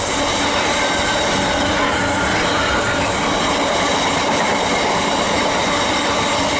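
Container wagons of a freight train rolling past: a steady, loud noise of steel wheels running on the rails, with faint thin steady tones riding above it.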